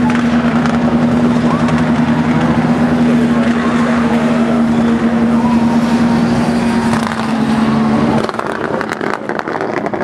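Racing car engine running hard at high, steady revs, then dropping off abruptly about eight seconds in.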